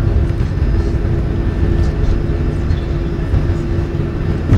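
Jet airliner's engines and airflow heard from inside the passenger cabin during takeoff: a steady low rumble with a steady droning tone.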